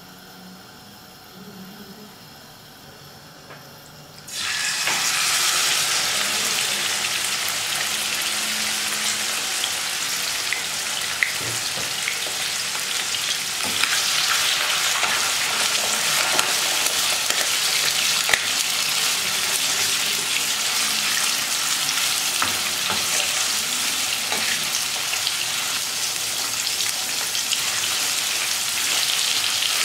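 Beef liver frying in oil in a pan: a sizzle starts suddenly about four seconds in and runs steadily while a wooden spatula stirs the pieces, with a few light knocks.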